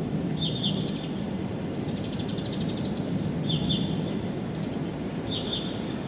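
A songbird singing a short, high phrase three times, about every two seconds, with a fast trill between the first two phrases. A steady low rumble runs underneath.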